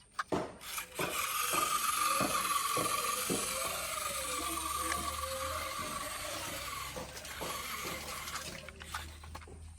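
A remote-control toy tractor's small electric motor and plastic gearbox whirring steadily, with scattered clicks and knocks. The whir starts about a second in and dies away near the end.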